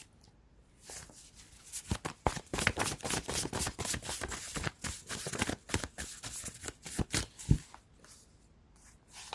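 A deck of tarot cards being shuffled by hand: a fast run of soft flicks and slaps starting under a second in and stopping about a second before the end.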